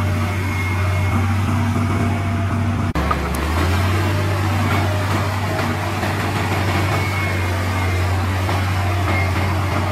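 Heavy diesel engine running with a steady low drone. There is a brief break about three seconds in, after which it carries on at a slightly different pitch.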